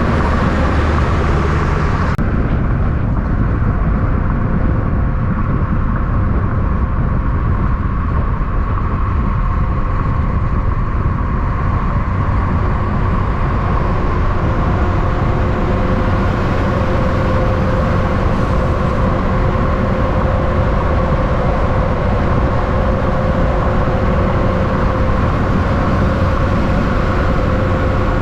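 Steady heavy road traffic with a continuous engine drone holding an even pitch, with no rise or fall over the stretch.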